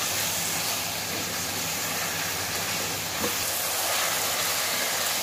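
Minced meat and chopped green capsicum sizzling steadily in hot oil in a pan as they are fried (bhuna) and turned with a spatula.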